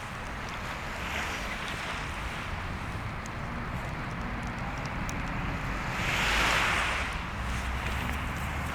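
Sea waves washing onto the shore, a small surge about a second in and a bigger one swelling and falling away about six to seven seconds in, over wind on the microphone. Faint crackles of the bonfire tick through it.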